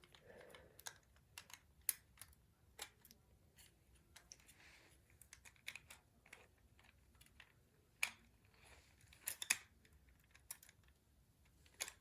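Faint, irregular clicks and taps of hard plastic toy parts being handled and fitted together while a toy's wing pack is reassembled, with a few sharper clicks about two, eight and nine seconds in.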